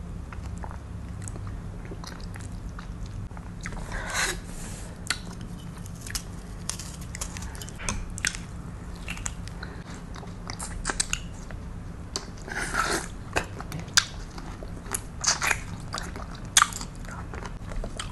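Close-miked eating: a person biting and chewing peeled rambutan, with irregular wet smacks and mouth clicks and a couple of longer slurps, over a steady low hum.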